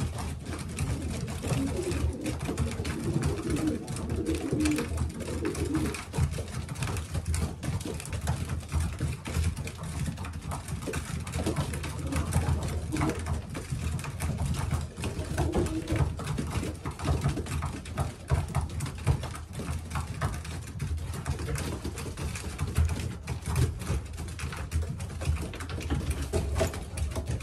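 Racing pigeons cooing in their loft, in soft bouts during the first few seconds and again midway, over frequent short sharp clicks and taps and a steady low rumble.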